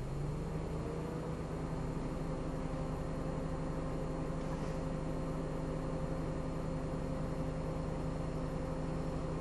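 Car engine running steadily over low road rumble while driving, its pitch rising slightly in the first second and then holding even.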